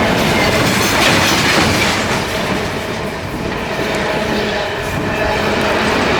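Long freight train's wagons rolling on the rails: a loud, steady rumble and clatter of steel wheels on track, easing slightly in the middle.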